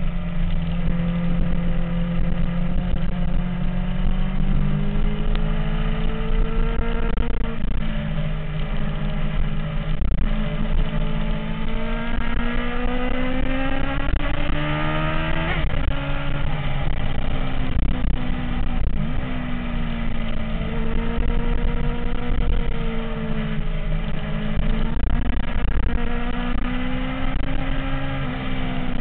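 MV Agusta F4 motorcycle's inline-four engine running steadily, its pitch drifting up and down with the throttle. About halfway through, the pitch climbs quickly and then drops off sharply.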